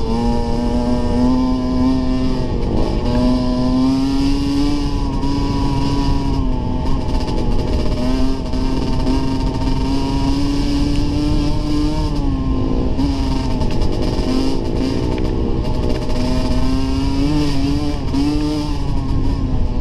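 Dirt bike engine running while being ridden, its pitch rising and falling with the throttle through the whole stretch.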